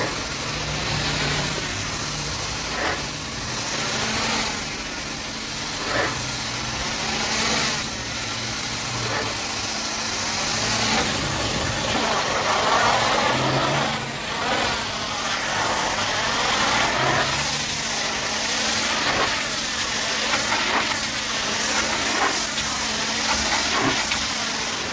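Pressure washer spraying: a steady hiss whose tone sweeps up and down as the jet moves over the surface, over the steady hum of the washer's motor.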